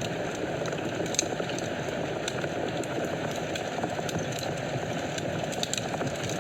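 Wood fire burning in a fireplace: a steady low rush of flames with frequent small crackles and pops, one sharper pop about a second in.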